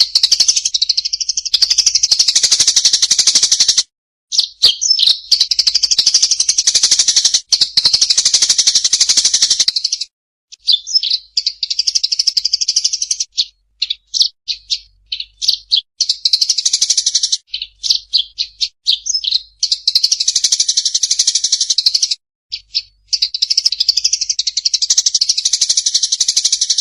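A small songbird singing long, rapid, high-pitched chattering trills in runs of a few seconds. The runs are broken by short pauses filled with scattered quick chirps.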